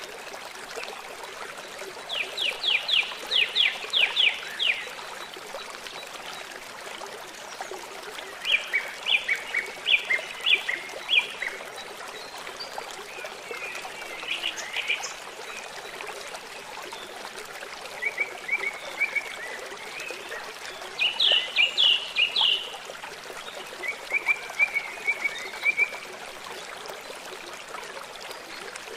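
Birds singing in short phrases of quick repeated high notes, a new phrase every few seconds, over the steady rush of a trickling stream.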